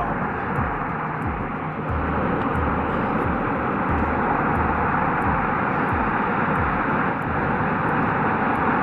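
Steady loud rushing noise of wind and heavy sea on the microphone, with a faint steady hum through it and irregular low rumbles.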